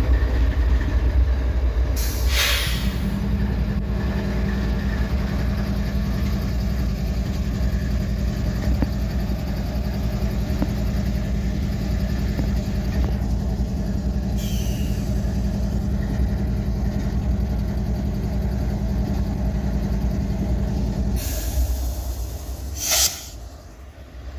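Diesel switcher locomotive idling, with a low hum that comes in about three seconds in and drops out near the end. Short hisses of air from its brakes come about two seconds in, midway and near the end, as the brakes are being released before it pulls away.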